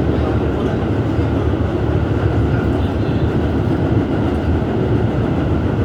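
R211S rail car running at speed between stations, heard from on board: a steady rumble of wheels on track and running gear.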